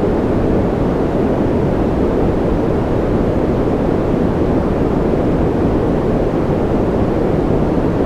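Generated white-noise track for sleep: a steady, unchanging rush of noise. Its weight sits in the low and middle range, so it sounds deep and even rather than hissy.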